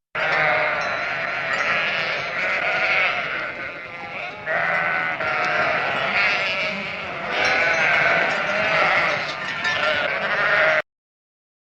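Long, wavering animal calls, several overlapping, in three bouts lasting about ten seconds, then cutting off abruptly.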